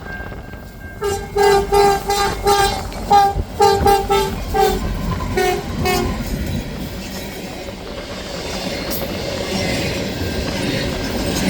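Locomotive horn sounding about a dozen short blasts in quick succession, then the rumble of a passing train growing louder.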